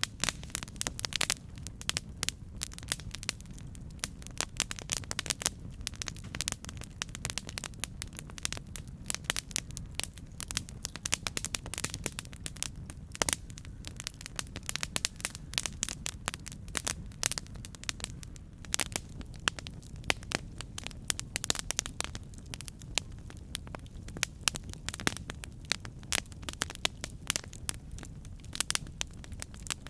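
Campfire burning: a steady low rumble of flames with continuous irregular crackling and popping of burning wood, some pops sharper and louder than others.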